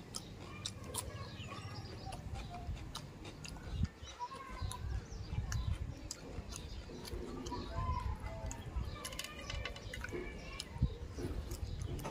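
A man chewing a mouthful of fried fish and rice eaten by hand, with many short wet smacks and clicks of lips and fingers. Birds chirp in the background.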